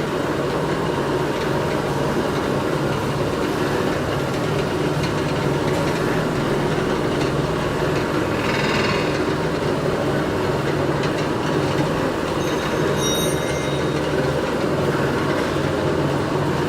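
Factory machinery running steadily, a low hum under a continuous mechanical clatter, with a brief brighter burst of noise about halfway through and a few short high tones later on.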